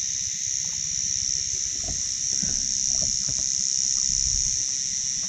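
Steady, high-pitched insect drone from the surrounding bush, with a low rumble underneath.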